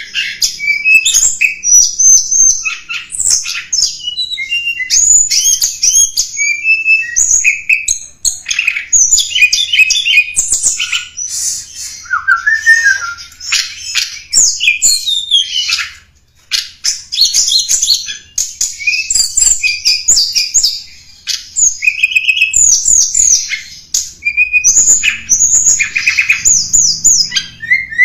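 Tledekan gunung songbird singing, used as a bird-lure call. Rapid high chirps and twittering phrases run one after another, with a brief pause about halfway through.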